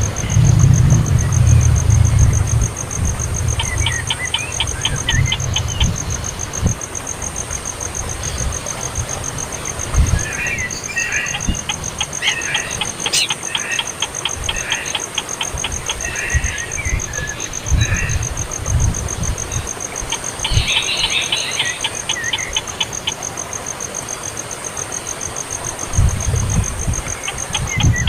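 Baby bird chirping in short trains of rapid, high chirps, over a steady high buzz, with low thumps and rumble on the microphone at the start and near the end.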